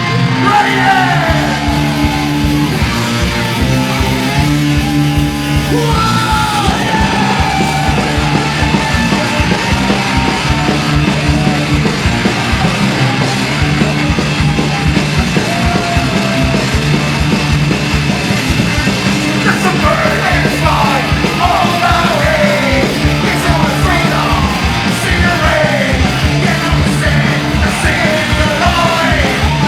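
Punk band playing live: loud electric guitars and fast, busy drums, with yelled vocals that come and go over the music.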